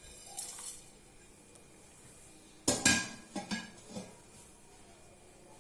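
Kitchen utensils clinking against a pan as whole spices are added: one sharp ringing clink about three seconds in, then three lighter clinks.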